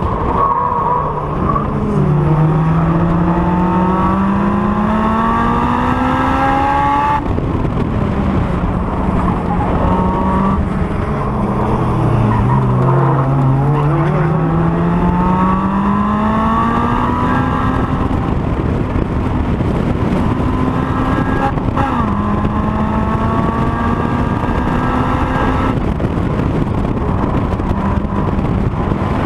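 Honda S2000's inline-four engine at full throttle on a circuit lap, its pitch climbing steadily through the revs. It drops sharply with upshifts about seven seconds in and again near the end, and falls away for a corner in the middle before climbing again.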